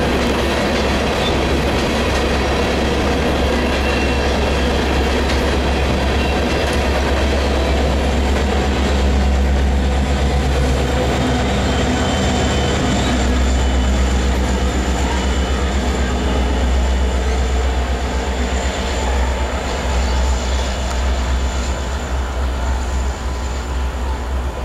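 Coal hopper cars rolling past with steady wheel clatter and a thin high wheel squeal. About halfway through, a pair of BNSF diesel-electric locomotives running as mid-train/rear distributed power (an SD70ACe and an SD70MAC) go by with their engines running. The sound then eases off as the train moves away.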